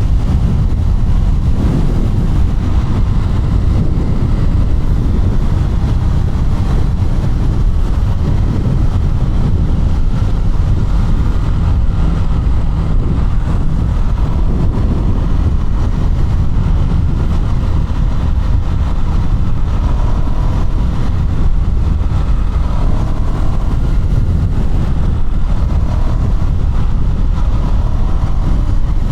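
KTM 200 Duke's single-cylinder engine running under way, beneath a steady low rumble of wind on the microphone. A few rising engine notes come through in the last third as the bike revs.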